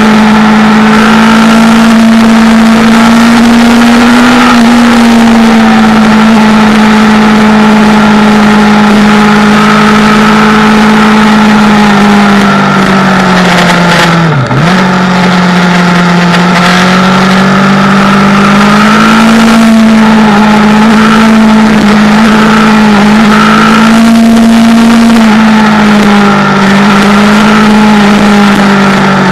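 Motorcycle engine running steadily at cruising speed over a constant rush of wind noise. About halfway through, the engine pitch drops sharply for a moment and climbs back, a throttle roll-off or gear change approaching a bend.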